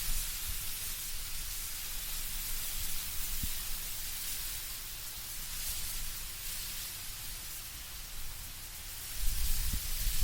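Wind moving through autumn trees, leaves rustling in a steady hiss, with a low rumble of wind beneath. The wind gusts stronger near the end.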